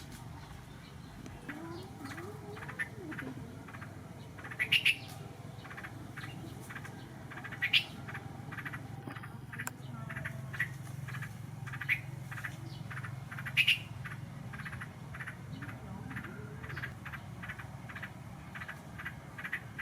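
Birds chirping in quick, short repeated calls, a few of them louder, over a low steady hum.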